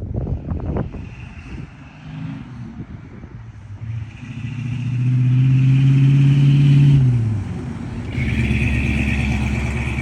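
1986 Chevrolet K10 pickup truck driving by: its engine note builds to a steady drone, is loudest about five to seven seconds in, then drops in pitch as the truck passes. The engine is heard again near the end, with a few brief thumps in the first second.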